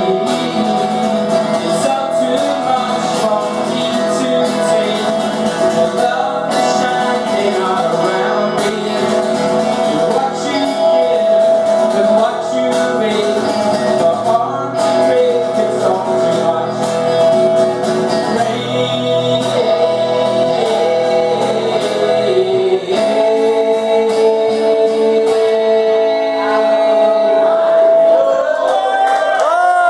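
Live acoustic music: guitars with a man singing, settling into a long held chord about seven seconds before the end.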